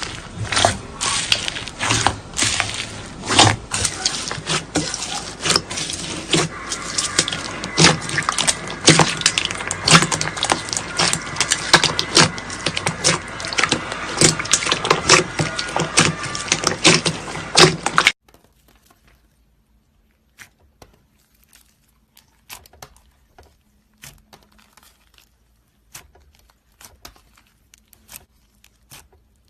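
Slime being squeezed and pressed, making a dense run of crackling clicks and pops that stops abruptly about 18 seconds in. After that only scattered faint clicks remain.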